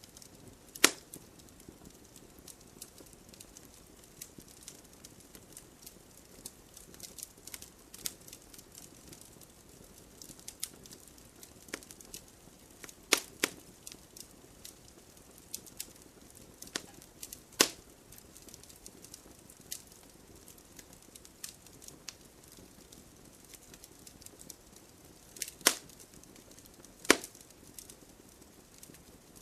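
Wood campfire crackling: scattered sharp snaps and pops at irregular intervals over a faint steady hiss, with about five louder pops.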